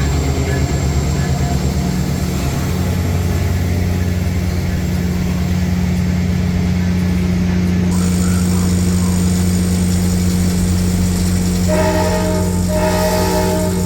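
Diesel passenger train running with a steady low engine drone, its horn sounding a chord in two blasts near the end.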